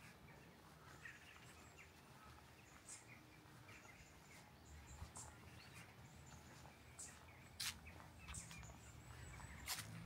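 Faint, scattered bird chirps and short calls in woodland, with two sharp clicks late on.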